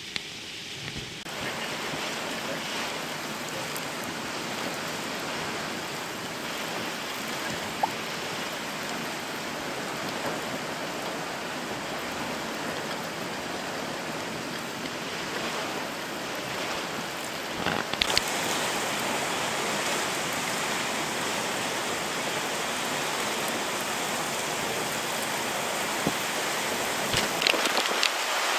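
Steady hiss of heavy wind-driven rain from a hurricane's outer band. It grows louder and brighter about two-thirds of the way through, with a few sharp patters near the end.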